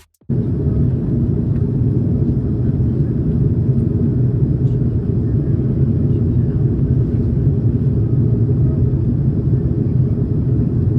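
Loud, steady low rumble of a vehicle in motion, cutting in and cutting off abruptly.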